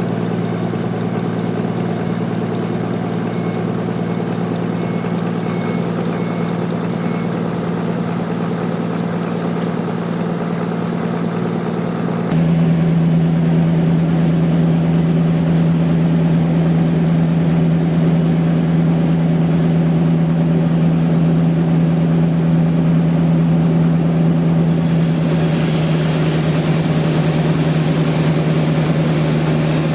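Sawmill machinery running steadily with a strong, even hum. The sound changes abruptly twice, getting louder about twelve seconds in and picking up more hiss near twenty-five seconds.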